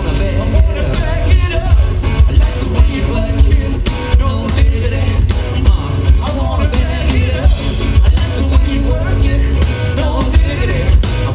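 Live band playing loud, with a heavy bass line and a steady drum beat.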